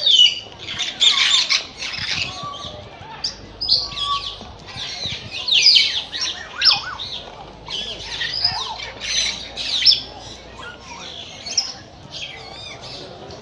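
Many birds calling at once, a dense mix of squawks and chirps with short gliding and trilling notes overlapping.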